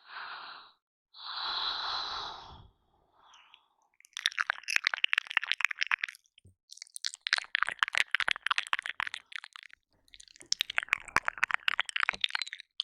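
Close-miked ASMR mouth sounds at a binaural ear microphone. Two soft breaths come first, then three long runs of quick, wet licking and smacking clicks with short pauses between them.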